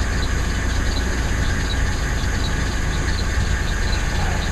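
1999 Chevrolet Malibu's 3.1-litre V6 idling steadily just after a cold start in freezing weather, with a faint high squeak repeating about two to three times a second.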